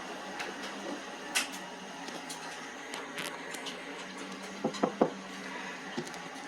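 Washing machine running with its drum turning: a steady hum with scattered light clicks, and three quick louder knocks about five seconds in.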